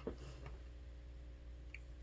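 Quiet room tone with a steady low hum, a faint click at the start and one faint short tick near the end.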